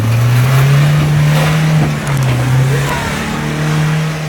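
A vehicle engine revving hard: its pitch climbs at the start, eases briefly about two seconds in, climbs again and begins to fall near the end.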